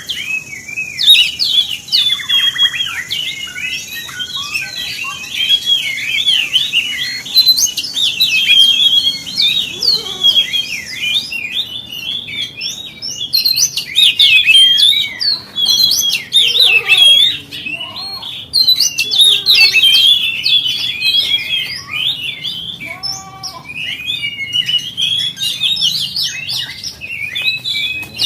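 Oriental magpie-robin (kacer) singing: a fast, continuous run of varied high chirps, whistles and slurred notes, with a few lower sliding whistles mixed in.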